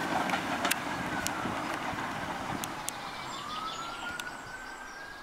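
Train running on rails, with scattered clicks and a thin whistle tone that dips and then slowly rises, the whole sound fading away toward the end.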